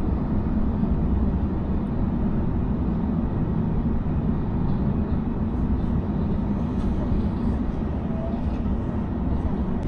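Steady low rumble of a double-decker electric suburban train running along the line, heard from inside the carriage.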